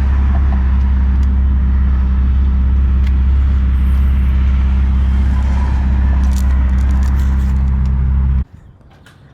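Car engine running at a steady pitch with a deep, even drone, no revving, that cuts off suddenly about eight seconds in.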